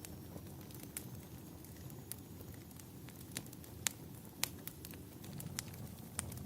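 Wood fire crackling, with irregular sharp pops, a few louder ones around the middle, over a steady low rumble.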